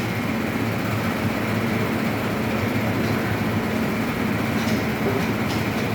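Sawmill machinery running steadily with a low, even hum, a few faint clicks near the end.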